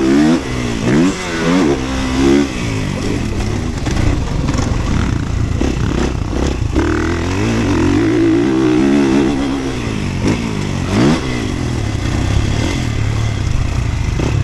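Motorcycle engine revving up and down repeatedly while riding, its pitch climbing and dropping over and over, over a steady rush of noise.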